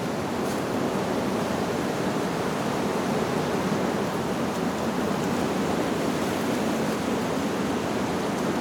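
Wind blowing steadily through leaves: an even, unbroken rushing.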